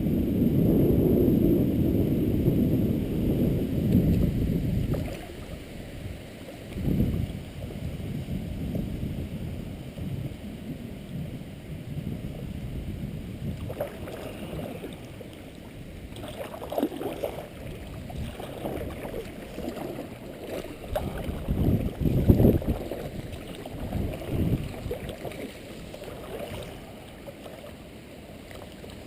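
Wind rumbling on the microphone in uneven gusts, loudest in the first few seconds, with water moving around a kayak.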